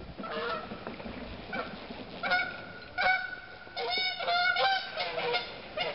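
Geese honking repeatedly: a series of short, nasal calls, several a second in bursts, over the steady rush of creek water.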